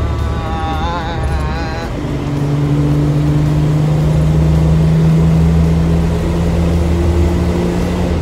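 The Jeep Wrangler YJ's 4.0-litre fuel-injected straight-six drones under load, heard from inside the cabin over a steady low road rumble. About two seconds in, the engine note comes up louder and then holds, its pitch creeping slowly upward as the Jeep accelerates in gear. In the first two seconds a brief wavering melodic sound rides over it.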